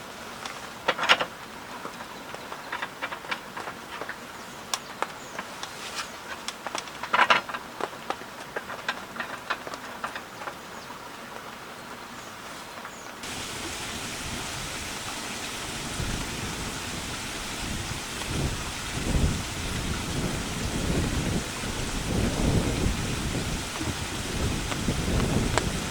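Light rain falling as scattered drops with sharp ticks, then, after a sudden change about halfway, a steady rain hiss with strong wind gusts rumbling, growing louder toward the end.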